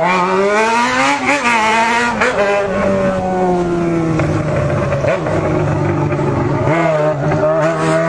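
Vehicle engine running hard under throttle. Its pitch climbs over the first two seconds, drops briefly, then holds fairly steady and sags slowly before picking up again near the end.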